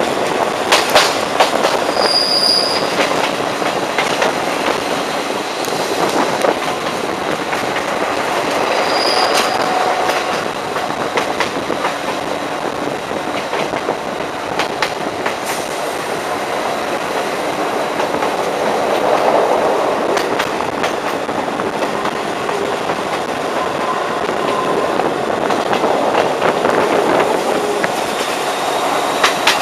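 Metre-gauge diesel train running along the track, heard from an open carriage window: a steady wheel-and-rail rumble with scattered clicks over the rail joints, and short high wheel squeals twice in the first ten seconds.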